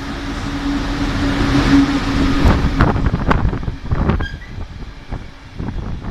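ÖBB Taurus electric locomotive hauling a container train past: a steady hum that swells as the locomotive passes and fades about three seconds in. Then the container wagons' wheels knock over rail joints and points in a run of sharp clatters.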